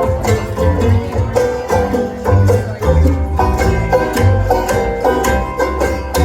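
Acoustic string band playing an instrumental break of a country blues: a quick plucked-string lead over a steady, pulsing bass line.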